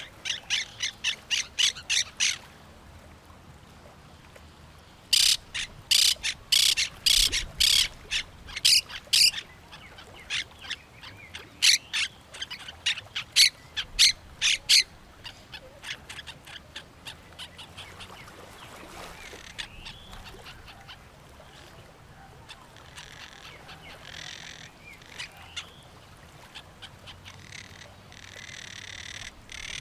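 Parrots squawking: rapid runs of harsh calls, about five a second, a short run at the start and a longer, louder run from about five to fifteen seconds in, then fainter scattered calls.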